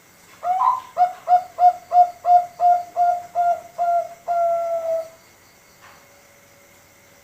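Male zebra dove (perkutut) of the Bangkok contest strain singing one full cooing phrase: an opening note, then a quick run of about ten short, evenly spaced coos, ending in one longer drawn-out note about five seconds in.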